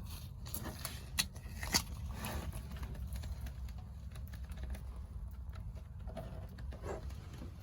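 Faint handling noise: scattered light clicks and taps over a low steady hum, with two sharper clicks in the first two seconds.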